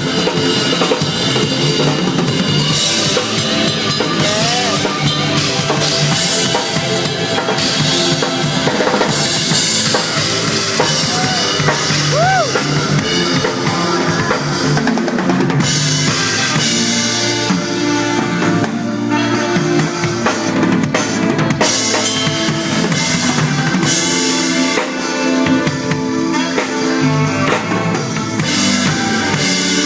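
Drum kit with bass drum and snare played steadily along to a full band backing track of sustained pitched instruments.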